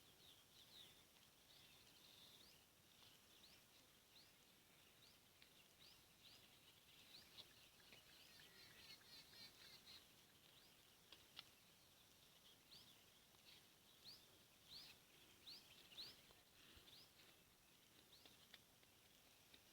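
Faint chirping of small birds: short, high notes repeated every half second or so, with a burst of quicker twittering about halfway through.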